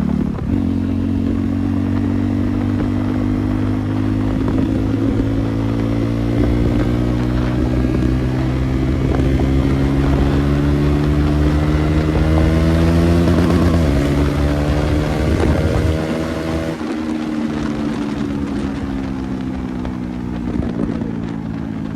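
KTM Duke 390 single-cylinder engine running loud with no silencer on its exhaust, the motorcycle under way. Its pitch climbs slowly for about thirteen seconds, breaks briefly about 14 seconds in, rises again, then falls away from about 17 seconds in as the bike slows.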